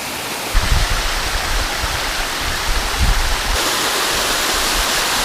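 Waterfall heard up close: a loud, steady rush of falling water with a low rumble underneath, turning brighter and louder in the hiss about three and a half seconds in.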